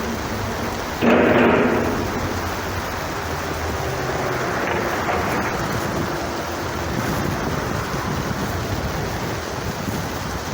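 Wind buffeting the microphone as a steady rumbling rush, with one sudden louder blast about a second in.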